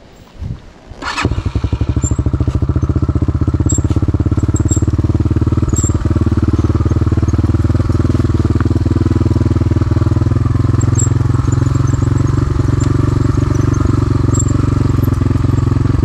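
Dirt bike engine starts up suddenly about a second in, then runs steadily at an even pitch with a fast, regular exhaust pulse.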